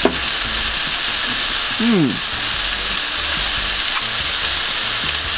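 Food frying in a hot pan on a camp stove, a steady sizzling hiss. About two seconds in a short falling hum from a person's voice sounds over it, with a click at the very start.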